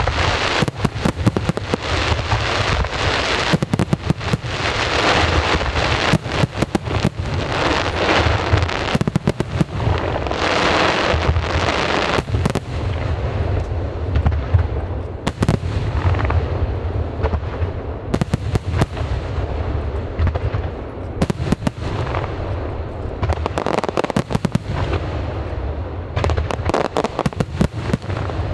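Aerial fireworks display: a dense barrage of shells bursting, with rapid bangs over constant crackling and a low rumble. The barrage thins to more separate bangs about halfway through.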